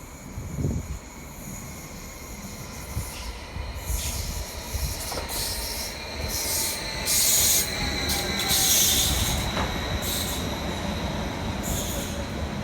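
A train moving through the station, with a rumble, a whine that falls slowly, and repeated high-pitched metallic squeals from the wheels or brakes, loudest a little past the middle.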